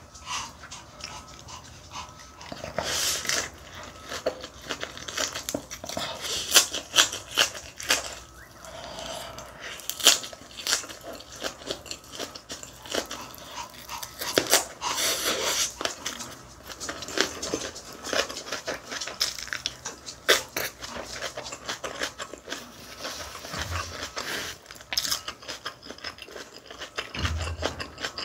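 Close-up crunching and chewing of a raw napa cabbage leaf wrapped around rice, with irregular crisp crackles throughout.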